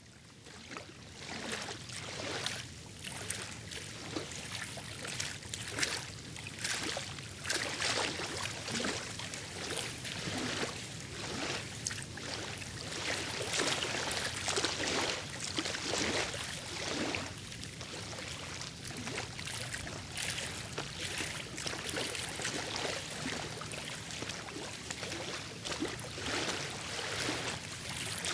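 Lake water lapping and splashing irregularly against the shore, small wavelets breaking one after another.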